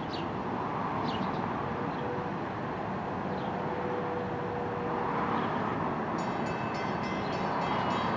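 A distant commuter train approaching along the line: a steady low rumble, with a few short bird chirps. About six seconds in, a rapidly repeating high ringing sets in.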